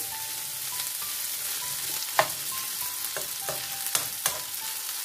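Boneless chicken pieces sizzling steadily as they fry in butter in a non-stick pan over medium flame, with their cooking liquid now frying off. A metal spoon stirring them clicks against the pan about five times in the middle stretch.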